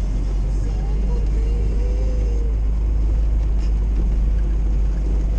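Steady low rumble of an old Jeep driving on unplowed, snow- and ice-covered road, heard from inside the cabin: engine and tyre noise.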